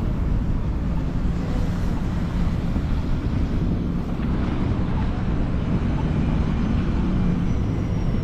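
Steady low rumble of city street traffic, with a faint engine hum and no sharp sounds standing out.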